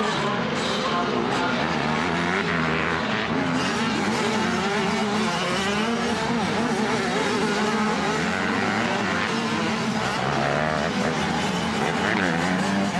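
Several 85cc motocross bikes racing together, their engines revving up and down and overlapping as they accelerate and shift around the track.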